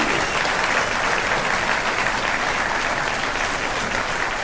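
Audience applauding steadily: many hands clapping at once, filling a hall.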